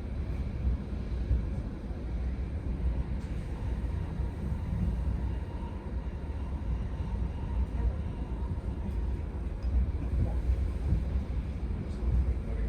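Passenger train running along the track: a steady low rumble with no sudden events, and a faint high hum in the first half.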